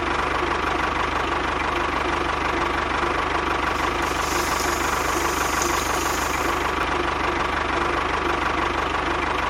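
A small machine's motor running steadily with a rapid, even knock, without changing speed.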